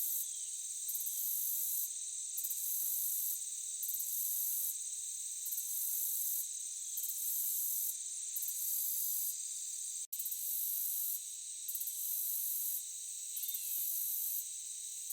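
A night insect chorus in a forest: a steady high buzzing, with a still higher trill that switches on and off in pulses about once a second. The sound cuts out for a split second about ten seconds in.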